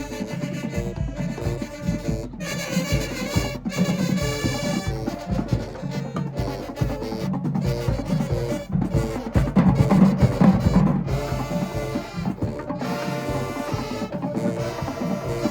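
High school marching band playing: brass holding and moving through chords over drumline percussion, swelling loudest about two-thirds of the way through.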